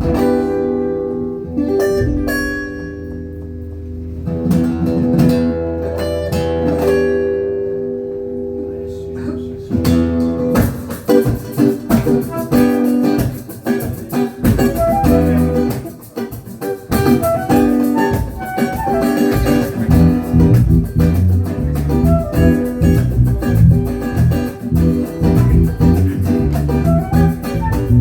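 Live funk band playing an instrumental intro: sparse plucked guitar notes over held bass notes, then the full band comes in about ten seconds in with a busier, louder groove.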